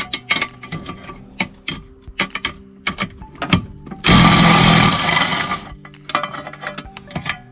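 Clicks, knocks and rattles of tools and parts while a Snapper zero-turn mower's control panel is taken apart. Just past the middle comes a loud burst of noise lasting about a second and a half.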